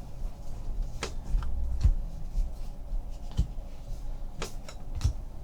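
Baseball trading cards being handled and flicked through by hand, with a few light, irregular clicks and slaps of card against card.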